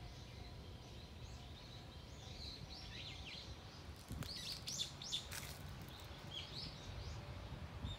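Small birds chirping, with short calls scattered throughout and a quick cluster of sharper chirps about halfway through, over a low steady background rumble.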